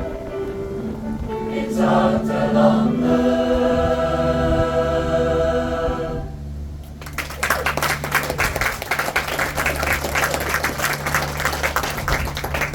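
Pop choir singing and holding a final chord over backing music, which ends about six seconds in. The audience then breaks into applause.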